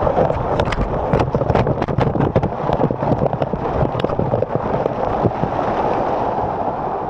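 Water rushing and splashing right at the microphone on a water slide, with many sharp crackles and knocks for the first few seconds, then settling into a steadier rush.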